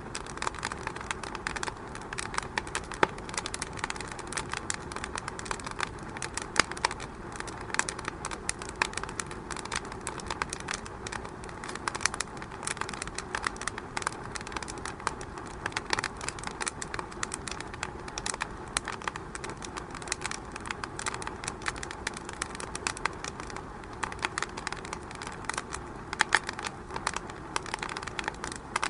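Wood fire in a fireplace crackling, with many irregular pops and snaps over a steady low hiss.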